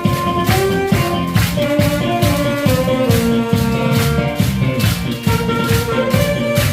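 Alto saxophone playing a trot melody in held, stepping notes over a recorded backing track with a steady beat and bright rattling percussion.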